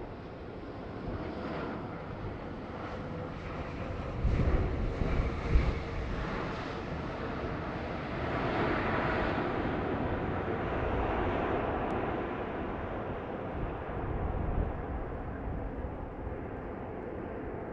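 Jet airliner passing, its engine noise swelling to a peak around the middle and then fading away. Gusts of wind buffet the microphone a few seconds in.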